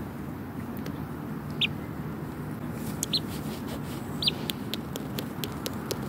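A small young bird held in the hand gives three short, high chirps, spaced a second or more apart. Under them runs a steady rustle of handling against cloth, with a run of sharp little clicks in the second half.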